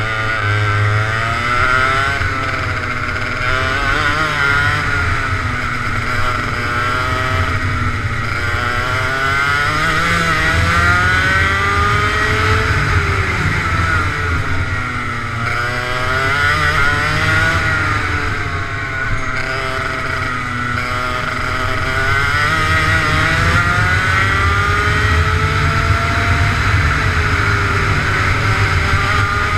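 Racing kart engine heard onboard at speed, its revs climbing and dropping again and again as it laps the track.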